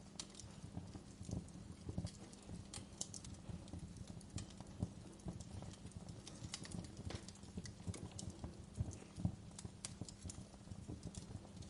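Wood fire crackling in a fireplace: burning logs giving off irregular snaps and pops, with a few louder pops among them.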